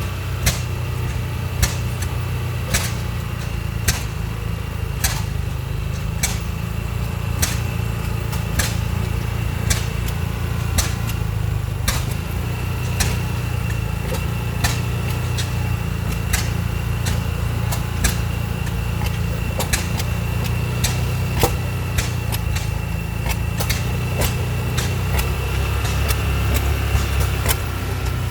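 Slow-running oil field engines firing, each exhaust beat a sharp pop, the pops coming roughly once a second with others in between, over a steady low engine rumble.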